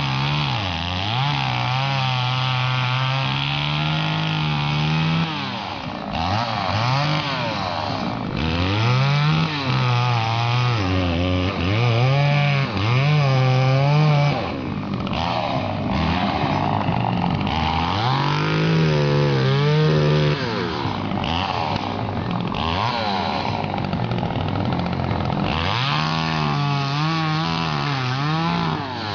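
Two-stroke chainsaw cutting firewood. The engine's pitch rises and falls over and over, held high for several seconds at a time and then dropping back briefly.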